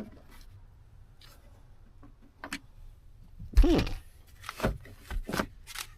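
Hand work on a truck's interior trim and bolts: scattered sharp clicks and knocks, mostly in the last two seconds, with a brief pitched sound that bends in pitch about three and a half seconds in.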